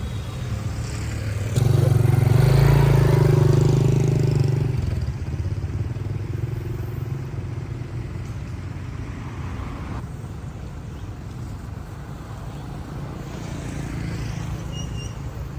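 Motor vehicle engine running with road noise. It swells louder for about three seconds, beginning about one and a half seconds in, then runs steadily.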